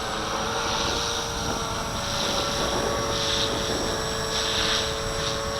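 Walkera V450D01 electric RC helicopter hovering, its motor and rotor giving a steady whine, with wind rumbling on the microphone.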